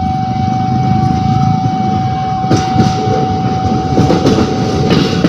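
Train running past with a loud, steady rumble and a constant high tone, its wheels clacking over the rail joints from about halfway on.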